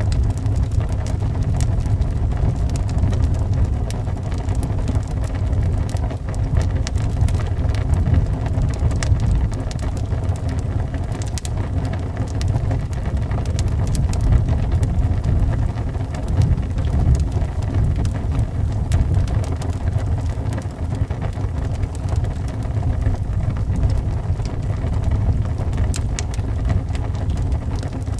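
Wood fire crackling with many small scattered pops over a steady low rush of wind.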